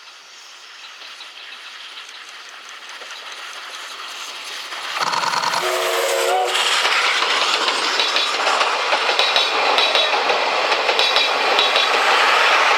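Steam locomotive approaching and growing louder, then a blast on its steam whistle lasting about a second and a half, about five seconds in. It then passes close by, loud, with the wheels clattering rhythmically over the rail joints.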